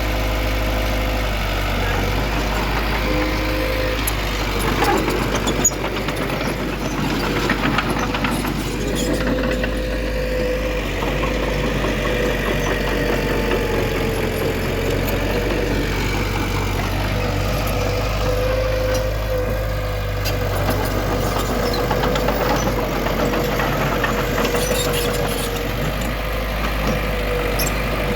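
Heavy diesel engine of earthmoving machinery running steadily, with a constant whine held through.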